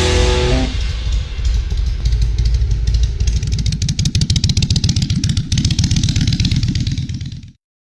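Motorcycle engine running with a steady, even pulse, cutting off abruptly near the end.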